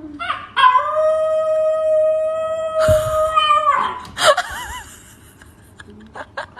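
A dog howling: one long, steady howl of about three seconds, then a shorter wavering howl about four seconds in.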